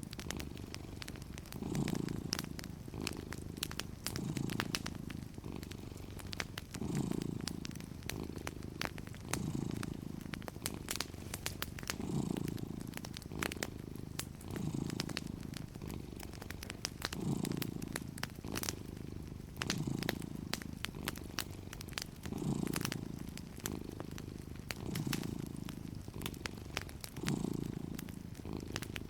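Cat purring steadily, the purr swelling with each breath about every two and a half seconds, over the scattered crackles and pops of a wood fire.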